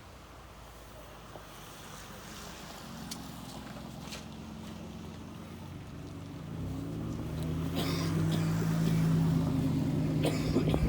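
A motor vehicle's engine coming closer, a low hum that grows steadily louder and is loudest near the end.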